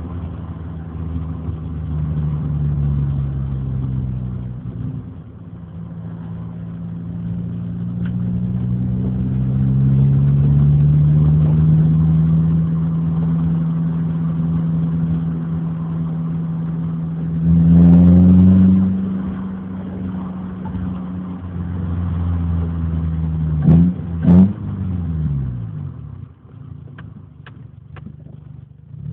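Renault Clio's engine and exhaust while driving, the engine note rising and falling as it accelerates and eases off. A louder rev comes about two-thirds of the way in, then two sharp knocks close together, and the engine drops to a quieter note near the end.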